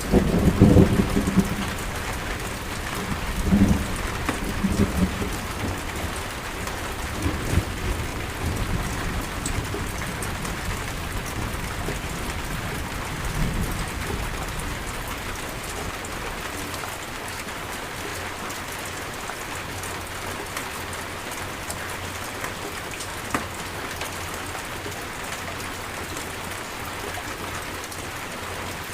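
Steady rain falling in a thunderstorm, with thunder rolling in low rumbles through the first half, loudest about a second in and dying away by midway. Afterwards only the even hiss of the rain remains.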